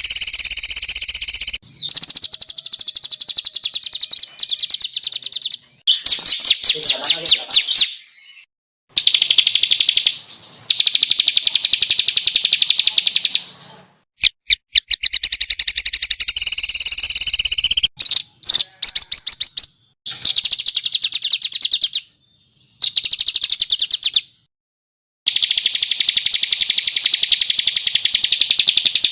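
Small songbirds singing rapid, high-pitched trills in dense bursts of a few seconds each, the 'tembakan' (rapid-fire) song used as master recordings for training cage birds. The bursts are spliced together with abrupt cuts and short silent gaps; one burst at about six seconds in is made of slower, lower notes.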